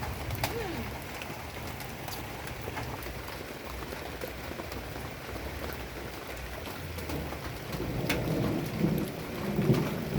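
Steady rain falling, with scattered drops ticking, over a low rumble; a few louder irregular knocks and rustles near the end.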